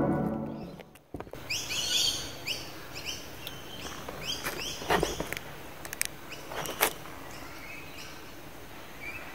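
Birds chirping: a run of short, high chirps, each falling in pitch, thickest in the first few seconds and thinning out later, with a couple of sharp clicks a little after the middle.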